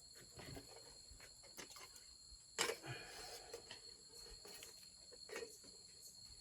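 Faint, steady high chirring of insects, with a sharp knock about two and a half seconds in, followed by a second of rustling, and a few softer clicks.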